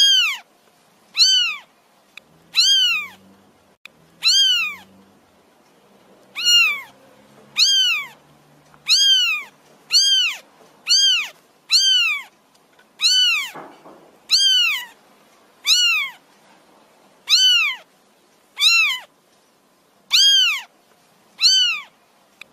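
Newborn kittens mewing over and over, about one short high-pitched mew a second, each rising and then falling in pitch.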